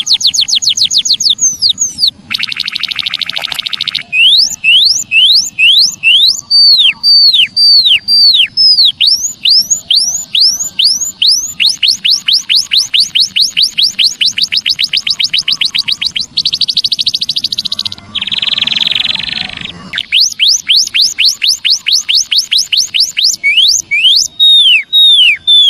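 Emprit kaji (white-headed munia) song recording: a fast run of high, thin, downward-sweeping chirps, from about two a second up to about five a second. It is broken three times by short buzzy rasping passages, about two seconds in and twice in the back half. It is a master/lure call track for songbirds.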